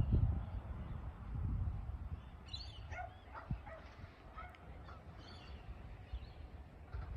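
Birds calling in short, scattered calls and chirps, busiest a few seconds in, over a low rumble that fades during the first two seconds.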